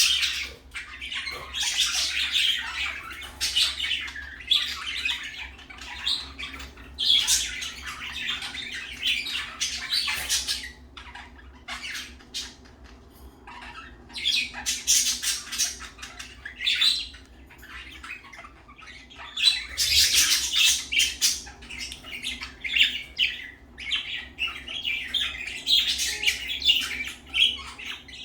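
Pet budgerigars chattering and squawking in bouts of rapid, scratchy calls with brief lulls between, over a faint steady hum.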